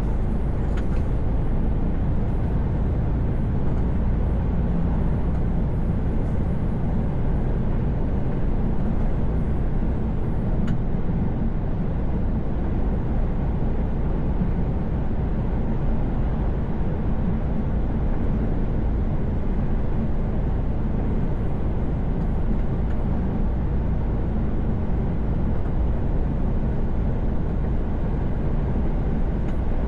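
Inside a truck cab cruising on a motorway: a steady low engine drone and road noise that keep an even level throughout.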